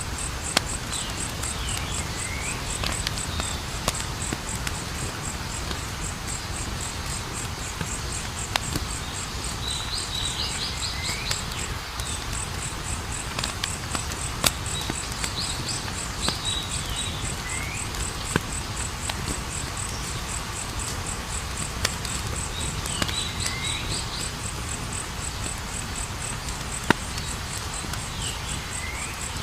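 Campfire crackling with scattered sharp pops over a low, steady rumble, while crickets chirr steadily and a bird-like call with a falling sweep repeats every few seconds.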